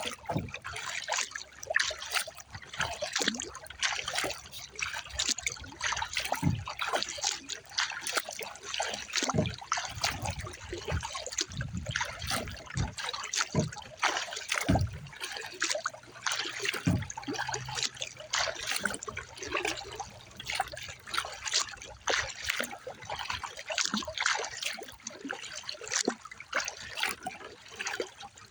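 Water splashing and trickling around a recreational kayak in light chop, in irregular splashes with no steady beat.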